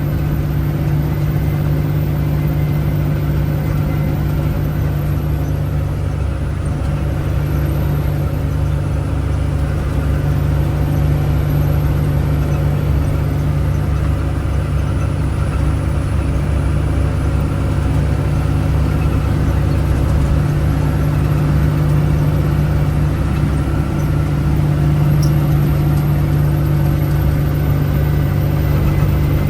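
Steady drone of the Power Wagon's 5.9-litre Cummins inline-six diesel engine pulling a load in fourth gear.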